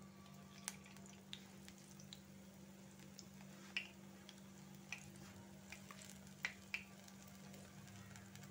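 Besan-battered spinach leaves frying in oil on a low gas flame: a faint sizzle with scattered small pops and crackles, about nine over the stretch, over a steady low hum.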